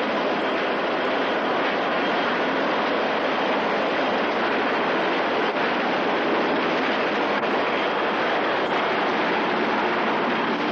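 Loud, steady rushing noise with no rhythm or pitch and no speech over it.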